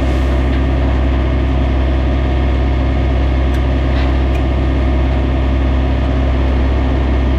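Cummins diesel engine of a Kenworth K200 cab-over truck idling steadily, with a few faint clicks about halfway through.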